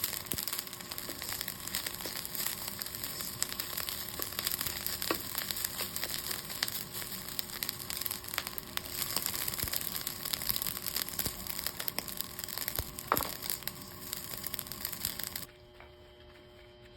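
Food frying in hot oil in a pan, a steady sizzle full of small pops. It cuts off suddenly near the end, leaving a faint hum.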